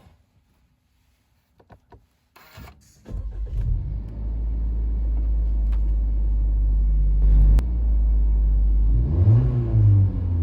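Suzuki Swift Sport engine and exhaust: after a few small clicks, the engine cranks and starts about three seconds in, then settles into a steady low idle. Near the end it is revved once, the pitch rising and falling.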